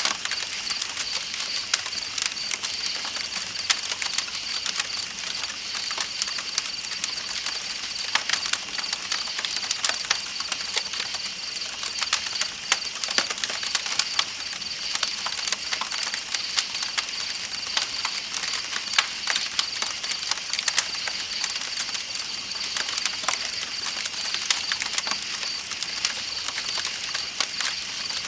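Campfire crackling with frequent sharp pops, over a steady, high, pulsing chirping of night insects and a soft, even rush of flowing river water.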